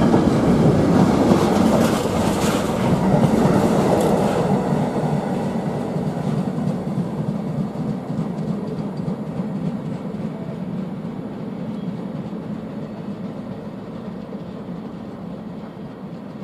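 Train running past on the rails, with a few sharp wheel clicks over rail joints in the first seconds, then the rumble fading steadily as it moves away.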